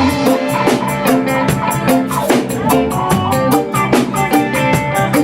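Roots reggae band playing an instrumental stretch between sung lines, with drum kit and guitar over a steady beat.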